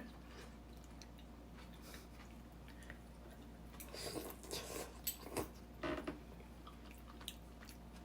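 People eating at the table: faint chewing with a few small clicks and soft taps bunched together around the middle, over quiet room tone.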